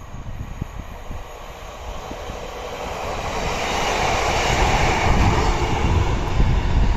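A train approaching on the rails, its running noise growing steadily louder from about two seconds in and then holding at a loud, steady level.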